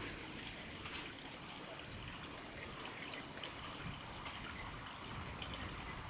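Steady trickling water with small drip-like ticks, over which a small bird gives four short, very high, upward-sweeping chirps: one about a second and a half in, a quick pair around four seconds, and one near the end.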